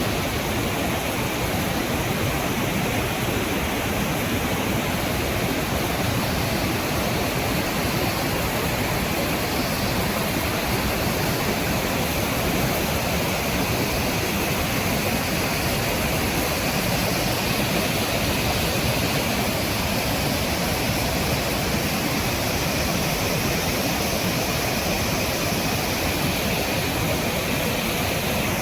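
Steady, loud rush of a waterfall and river rapids, an even wash of water noise that does not change.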